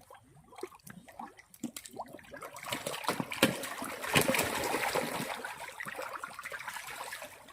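Water splashing and trickling, a dense patter that swells about two and a half seconds in and eases off near the end.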